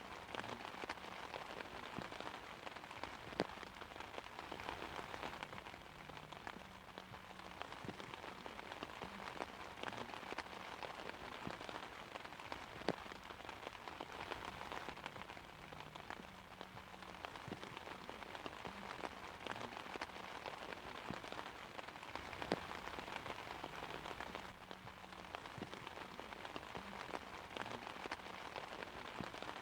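Steady rain falling on an umbrella: a constant patter with scattered sharper drop hits, a few of them louder than the rest.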